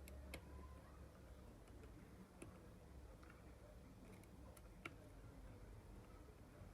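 Faint, scattered small clicks and taps of plastic and metal phone parts being handled and worked with small tools, over a quiet room hum; the sharpest click comes near the end.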